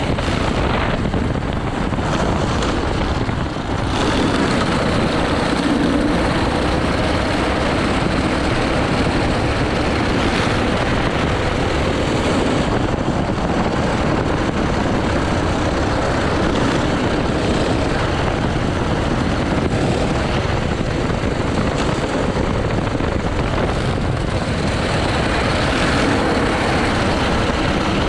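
80cc go-kart engine running hard through a lap. There is a brief dip a little under four seconds in, as the throttle eases.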